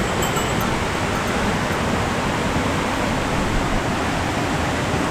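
Steady rushing of a fast, high-running mountain stream.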